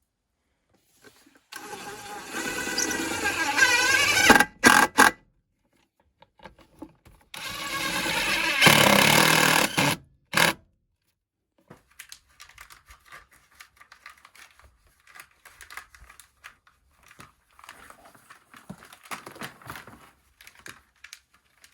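Two bursts of a small motorised tool, each about three seconds, the second a few seconds after the first, followed by faint clicking and rattling.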